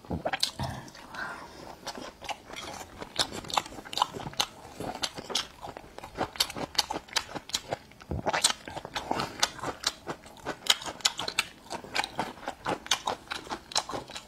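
Close-miked chewing with many sharp, crisp crunches: a mouthful of spice-coated skewered food, then a pickled green Laba garlic clove bitten and crunched from about eight seconds in.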